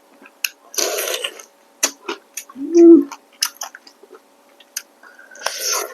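Close-miked eating of rice noodles: wet chewing clicks and two longer slurps, about a second in and near the end. A short low hum near the middle is the loudest sound.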